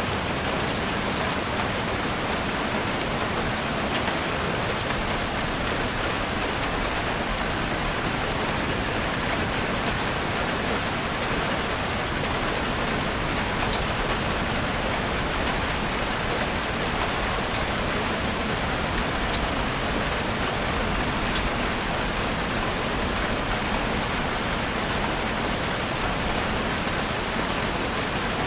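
Heavy rain falling steadily on a roof: a dense, even hiss with many fine drop patters.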